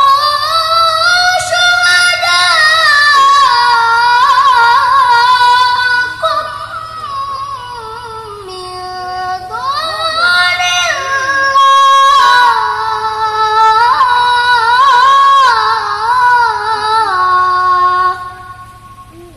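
High-pitched voice chanting a long, melismatic phrase of Quran recitation in the ornamented tilawah style, with a short breath about twelve seconds in, stopping near the end.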